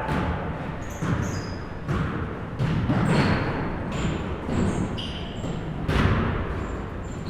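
Basketballs bouncing on a gym floor, with irregular thuds about every half second to a second, mixed with short high squeaks typical of sneakers on the court.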